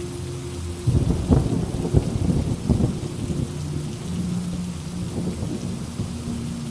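Steady rain with a thunderclap about a second in, its rumble crackling and rolling away over the next couple of seconds.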